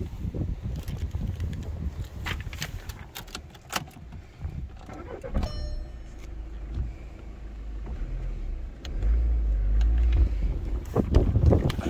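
Volkswagen Golf 1.6 TDI four-cylinder diesel started after a few clicks and key jingles, catching about five and a half seconds in. It then idles and is revved to about 2000 rpm near the end.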